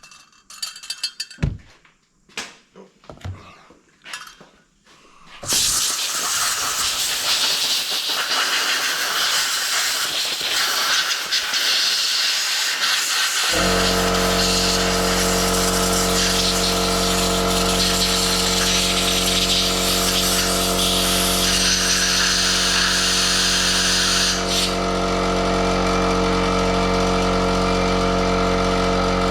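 A few sharp clicks, then a compressed-air blowgun hissing loudly and steadily from about five seconds in as it blasts out carburettor parts. About halfway through, an air compressor's motor starts and runs steadily under the hiss, refilling its small tank.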